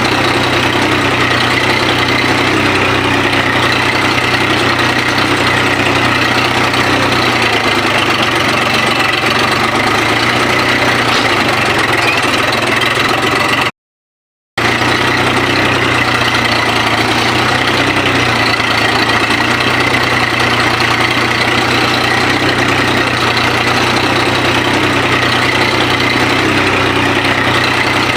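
Tractor engine running steadily under a cultivating load, with a low even hum. The sound drops out completely for about a second just before halfway, then resumes unchanged.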